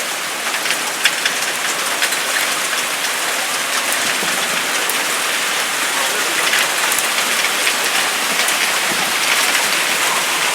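Heavy rain mixed with hail pelting down: a dense, steady hiss of rain with many small sharp ticks of hailstone hits, building slightly louder.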